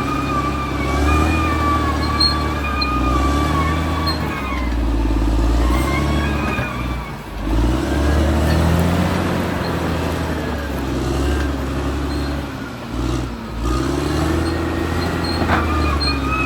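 Caterpillar D6R XL bulldozer's diesel engine running as it works, with a steady low rumble and a high whine that rises and falls; the engine dips briefly about seven seconds in and again about thirteen seconds in.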